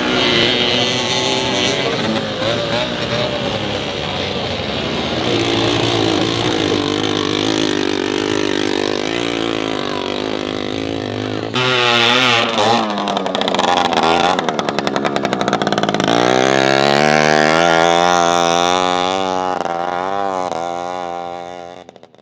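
Small vintage two-stroke motorcycle engines racing, their pitch rising and falling as the riders rev up and back off. In the last few seconds one engine climbs steadily in pitch as it accelerates, then the sound fades out.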